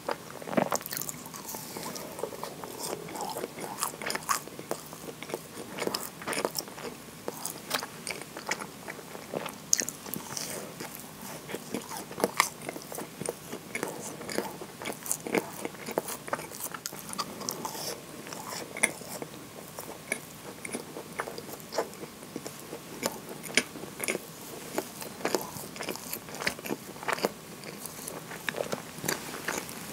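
Bites and chewing of a soft chocolate-chip scone, with small crunches from its baked crust and wet mouth sounds, coming irregularly throughout.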